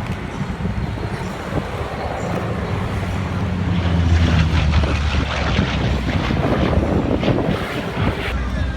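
Aircraft engine drone with wind buffeting the microphone, growing louder about four seconds in and easing off near the end.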